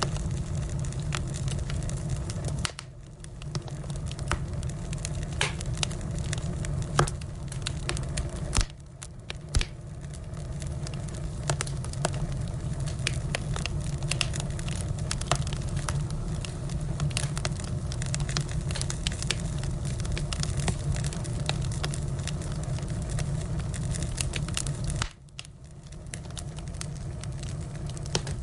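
Firewood burning in an open fire, crackling with frequent sharp pops over a steady low rush of flame. The sound dips quieter three times, each time building back up.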